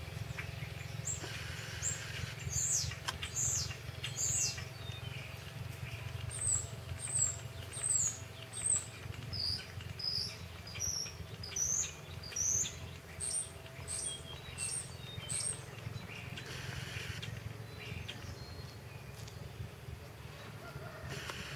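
A songbird calling: a long series of high, sharp chirps, each sliding down in pitch, about three every two seconds, that stops about three-quarters of the way through. A steady low hum runs underneath.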